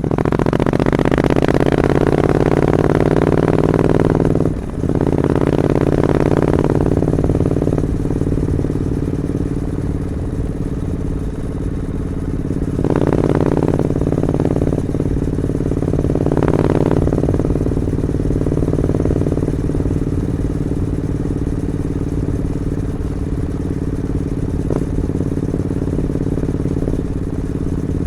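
Triumph Scrambler 900 parallel-twin engine through its stock two-into-one exhaust, revved and held for a few seconds, dipping briefly, revved again, then blipped twice more before settling into a steady idle.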